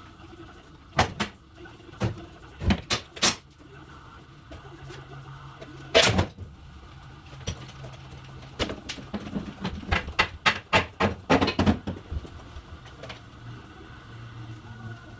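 A series of sharp knocks and clanks: a few scattered ones, a louder, longer hit about six seconds in, then a quick run of knocks between about nine and twelve seconds.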